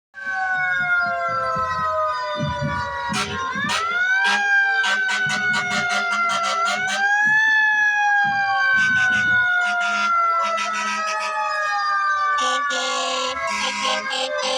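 Several fire truck sirens wailing together, their pitch sliding slowly down and winding back up a few times, with bursts of short sharp blasts over the top.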